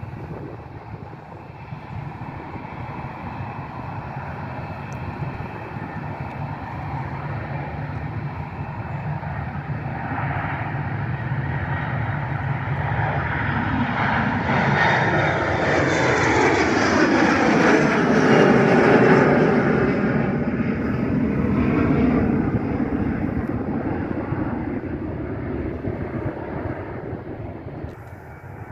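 A fixed-wing airplane passing by: its engine noise builds steadily, peaks about two-thirds of the way through with a tone sweeping downward, then fades away.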